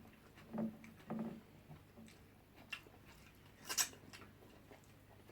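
Faint, scattered eating and handling noises at a meal: two soft knocks in the first second and a half, a few light ticks, and one sharp click about four seconds in.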